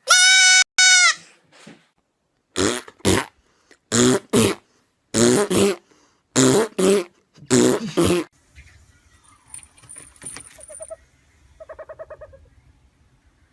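Animal calls: one loud, drawn-out high call, then a run of short calls in pairs, then a quieter buzzy, pulsing call near the end.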